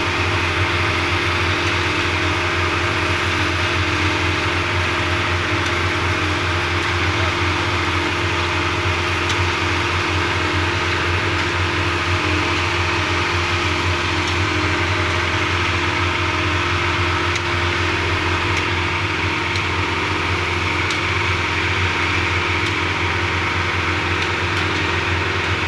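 Engine of a concrete mixer machine running steadily at constant speed, an even, unbroken mechanical hum.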